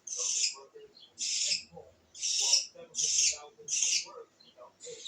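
Nestling birds begging: five harsh, hissing calls in a row, about a second apart.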